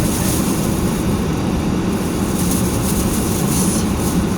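Steady rushing of a car's heater and defroster blower running hard, with the engine idling underneath as a low hum, heard inside the cabin while the car warms up to thaw.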